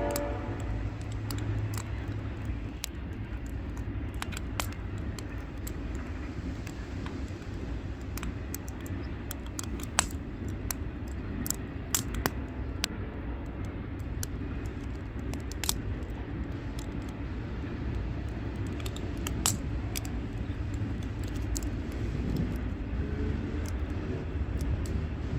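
Firewood burning, with sharp crackles and pops scattered irregularly over a steady low rumble.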